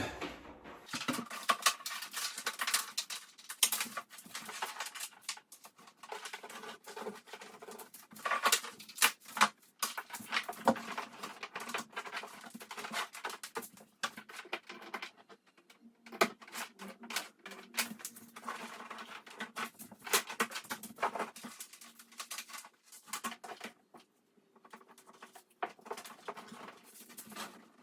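Irregular clattering, tapping and rustling of equipment being handled and set down on a workbench, coming in bursts with short pauses.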